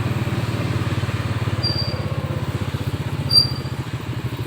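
Motorcycle engine running with a fast, even pulse, fading slightly toward the end, with a few brief high chirps over it.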